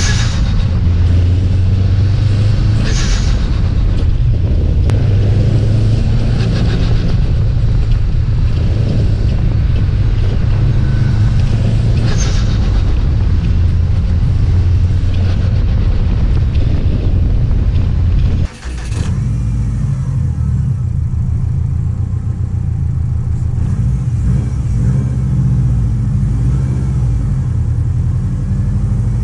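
Subaru WRX STi's turbocharged flat-four engine and exhaust running while driving: a steady deep rumble, with short hissing bursts of turbo flutter a few times. The sound drops out briefly about two-thirds of the way in.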